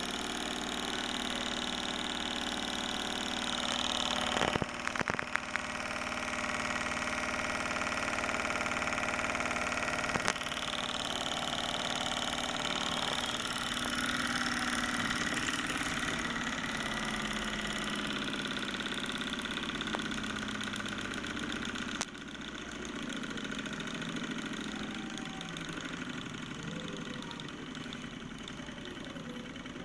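Small engine running with a steady, machine-like hum, likely a model Stirling engine. It changes pitch about ten seconds in and again around twenty-two seconds in, with a short rattle of clicks about four and a half seconds in.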